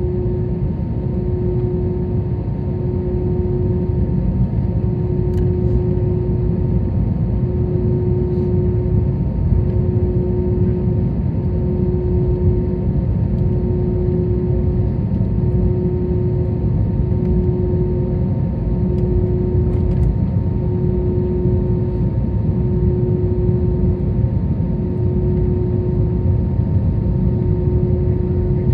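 Airbus A321 cabin noise while taxiing after landing: a steady low rumble from the engines at idle. Over it runs a steady hum, and a lower tone that drops out briefly about every two seconds.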